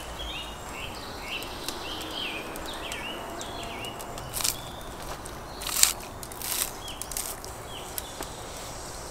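A small bird chirping repeatedly in short calls over the first three seconds or so, against steady outdoor background noise. Later come a few sharp knocks and taps of food preparation on a wooden table, the loudest about six seconds in.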